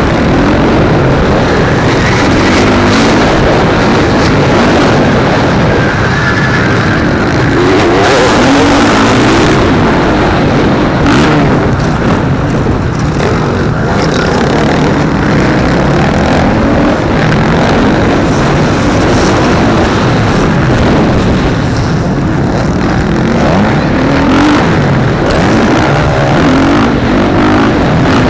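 Motocross motorcycle engine running hard, revving up and down continuously and loudly as the bike is ridden through the race.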